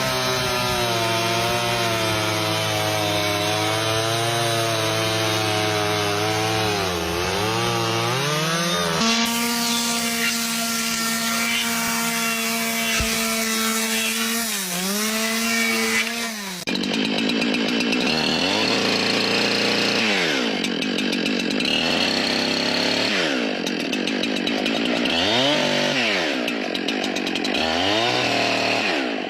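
Chainsaw engine running at high revs, its pitch repeatedly dropping and climbing back as it cuts wood. The sound changes abruptly about nine seconds in and again near seventeen seconds, as if separate takes are joined.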